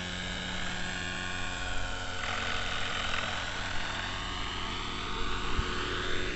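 Neo Caliber 50 RC helicopter's glow-fuel engine and rotors running in flight, a steady buzz with a high whine that shifts in pitch, dipping and then rising again near the end.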